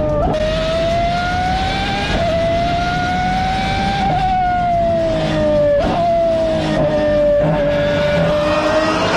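Pagani Huayra R's naturally aspirated V12 at high revs on track: a loud, high-pitched wail. It rises and falls in pitch, breaking off sharply every second or two at the shifts.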